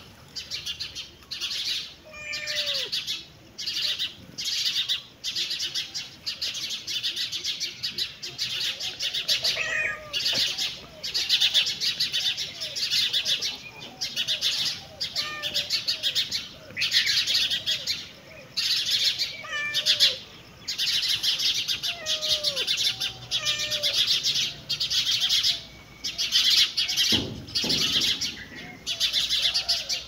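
Birds chirping in high, rapid trills that come in short bursts about once a second, with lower sliding calls between them.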